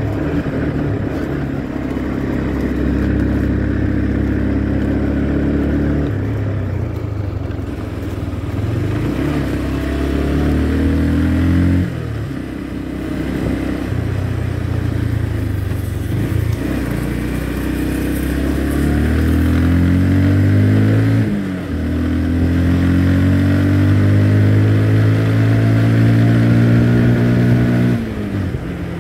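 Motorcycle engine running under way, its pitch climbing and then dropping back sharply several times, about every five or six seconds.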